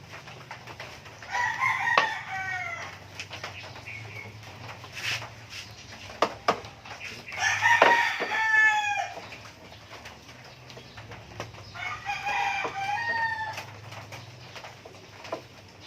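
A rooster crowing three times, each crow about a second and a half long and falling in pitch at its end. A few scattered clicks and knocks sound between the crows.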